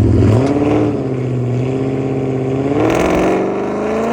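Car engine accelerating under load, its pitch holding fairly steady and then climbing smoothly in the second half.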